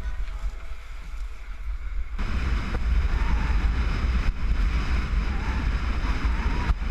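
Strong typhoon wind buffeting the microphone with a constant low rumble over the noise of rough surf. The noise gets abruptly louder and brighter about two seconds in.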